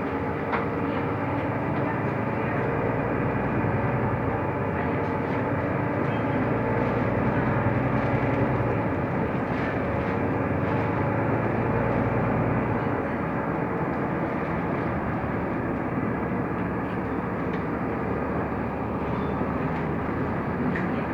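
Mercedes-Benz O345 Conecto LF city bus under way, heard from inside the cabin: the engine running steadily with road noise, and the engine note changes about 13 seconds in.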